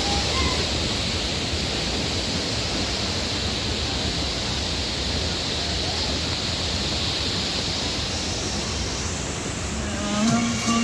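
Steady, even rushing of a mountain waterfall. Music comes in near the end.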